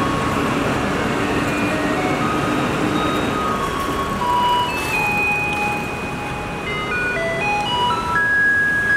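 A Taiwanese garbage truck's loudspeaker plays its electronic collection jingle, a simple melody of single held notes stepping up and down, over steady background noise.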